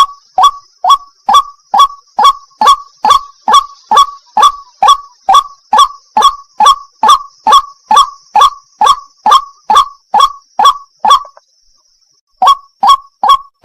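White-breasted waterhen (burung wak-wak) calling: a fast run of short, rising 'wak' notes, a little over two a second, with a brief pause about eleven seconds in before the calling resumes. A steady high hiss runs behind the calls.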